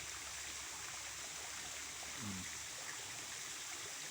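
A forest creek running steadily over rocks, an even rushing hiss of flowing water. A brief low sound, dropping in pitch, comes about halfway through.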